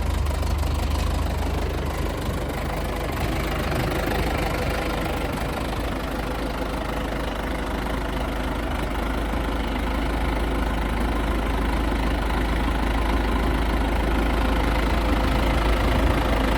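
1979 John Deere 550 crawler dozer's diesel engine idling steadily just after a cold start in winter, growing a little louder toward the end.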